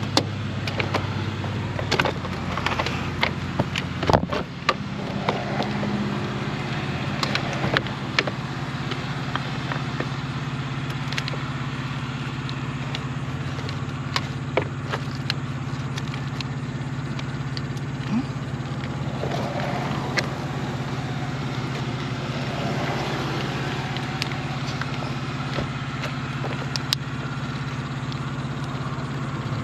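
A car engine running at a steady low speed, a constant hum, with scattered sharp clicks and taps throughout.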